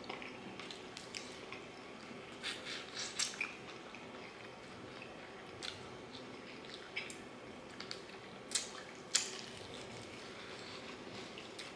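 Close-up eating of fried chicken: chewing and biting into crispy crust, with wet mouth sounds and scattered sharp crackles, the loudest a little past the middle.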